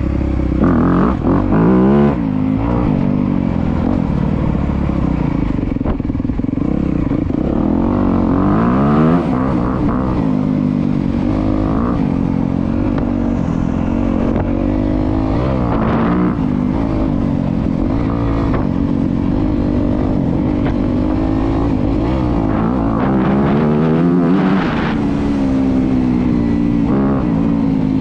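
Honda CRF250R motocross bike's single-cylinder four-stroke engine under riding load, its pitch rising and dropping back again and again as the throttle is worked.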